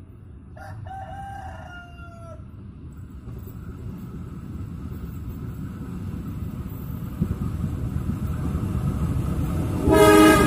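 A rooster crows once, about a second in, in a long, slightly falling call. The low rumble of an approaching long-hood diesel locomotive and its train grows steadily louder, and just before the end the locomotive's horn sounds loudly.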